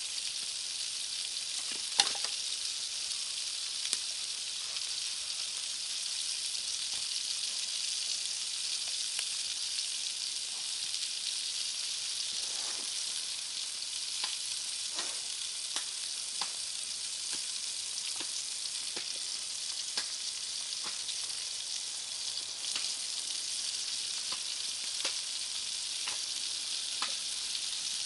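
Food frying in a pan over a campfire: a steady sizzling hiss with scattered sharp pops and crackles, one louder pop about two seconds in.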